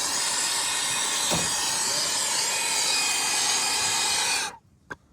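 Brazing torch flame hissing steadily as it heats a copper refrigerant line joint on a compressor to unbraze it; the hiss cuts off suddenly about four and a half seconds in.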